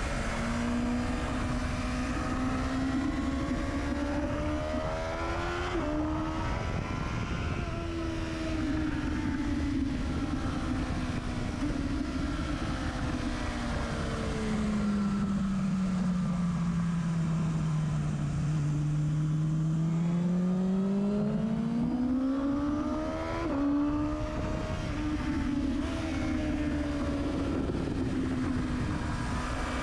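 Motorcycle engine and exhaust at track speed, heard from right beside the silencer, with wind noise. The engine note rises and falls with the throttle, stepping abruptly a few times as gears change, and drops low for several seconds in the middle before climbing again.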